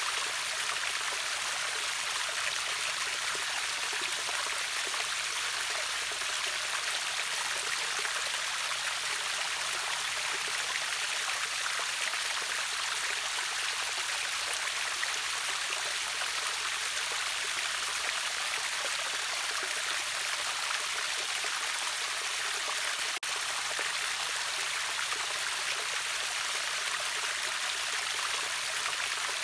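Steady rush of water from a river waterfall: an even, unbroken hiss, heaviest in the upper range with little low rumble.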